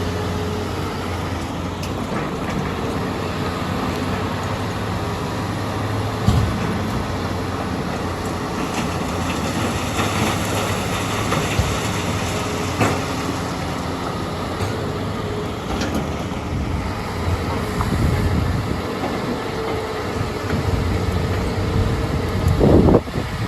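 Heavy diesel machinery running steadily, most likely the Hitachi EX200 excavator's engine working under load. A few sharp knocks come through, about a quarter of the way in, about halfway, and near the end.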